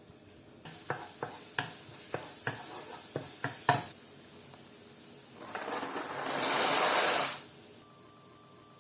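Pan cooking: a steady sizzle with about nine quick knocks of a utensil against the pan over a few seconds. A louder rush of sizzling noise then swells for about two seconds and cuts off.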